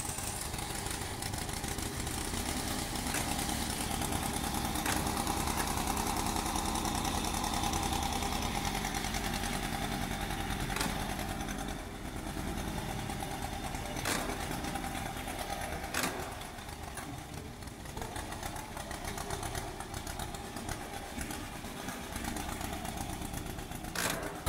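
A century-old motorcycle's engine running with a rapid low firing beat that eases and picks up a couple of times, with a few sharp clicks along the way.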